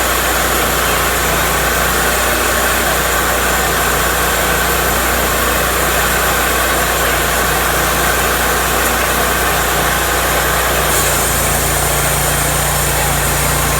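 Cook's MP-32 sawmill's engine running steadily, with a slight change in its tone about eleven seconds in.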